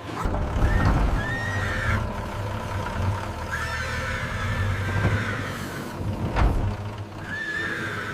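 A horse whinnying, with several wavering calls over a low steady rumble.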